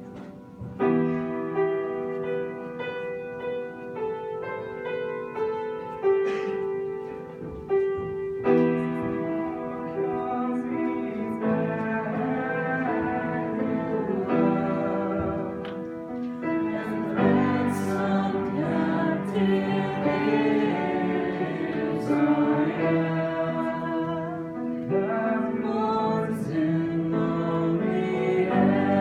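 Worship music: held instrumental chords, with singing voices joining partway through.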